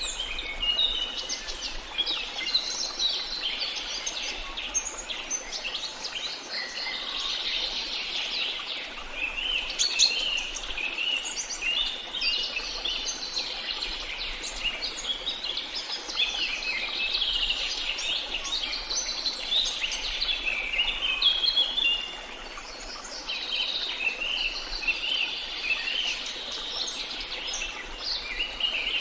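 A chorus of many small birds chirping and twittering, with quick high calls overlapping continuously. There is one sharp click about ten seconds in and a short lull a little past twenty seconds.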